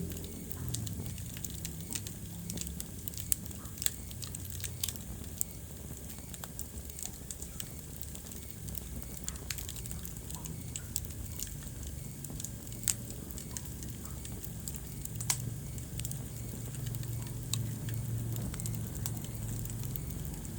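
Wood fire burning in a fireplace: scattered sharp crackles and pops, a few louder than the rest, over a steady low rumble of the flames.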